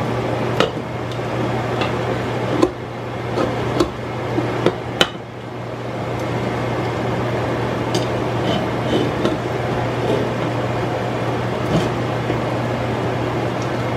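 Metal utensil knocking and clinking against a cooking pot several times in the first five seconds, with a few lighter clinks near the middle, over a steady hiss and low hum.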